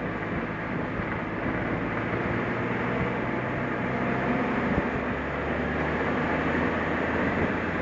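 Suzuki Jimny driving: steady engine hum and road noise, with the engine's low note shifting slightly about halfway through.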